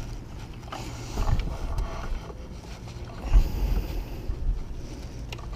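Low rumble with small clicks of metal parts being handled during fitting of a timing belt tensioner and its bolts. Two thumps, a light one about a second in and a louder one halfway through.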